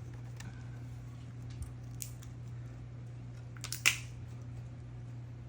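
Snow crab shell being cracked and snapped open, with a few sharp cracks; the loudest, a quick cluster, comes about four seconds in. A steady low hum runs underneath.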